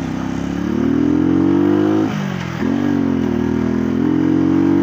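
125 cc motorcycle engine accelerating: its pitch rises, drops at a gear change about two seconds in, then climbs again and holds steady.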